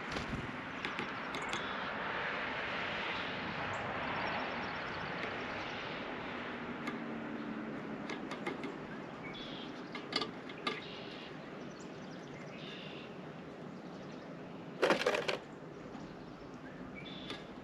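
Small birds at a feeder: scattered sharp pecking and perching clicks and a few short, high chirps over a soft rush of background noise that swells and fades in the first few seconds. About fifteen seconds in comes a brief, loud flutter of wings.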